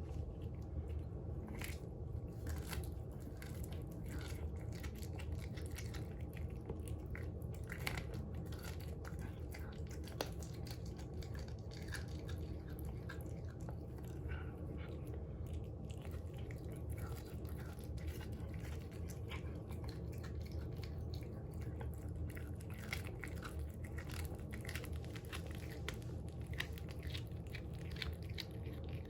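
A cat chewing and crunching through a whole raw quail, with irregular sharp crunches of bone throughout.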